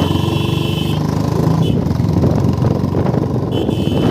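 Royal Enfield Bullet motorcycle's single-cylinder engine running with a rapid, steady thumping beat. A high steady tone sounds over it through the first second and again near the end.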